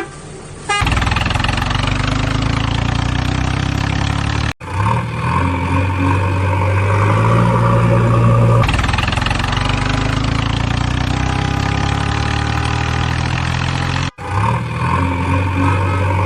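A heavy vehicle engine running with a low throb and revving up and settling. It cuts off abruptly twice, about four and a half seconds in and about fourteen seconds in, and picks up again each time.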